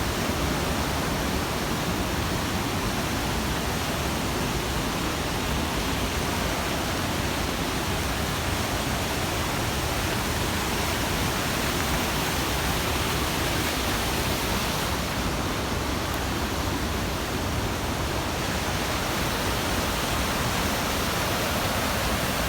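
Steady rushing of mountain water, a loud even roar that holds constant throughout.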